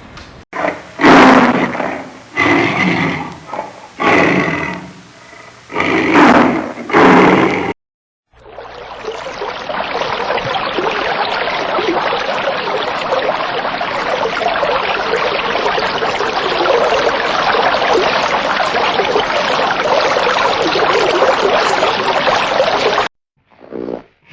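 A large animal giving a run of about six loud, roar-like calls over the first eight seconds. After a short break comes a steady, even rushing noise lasting about fifteen seconds.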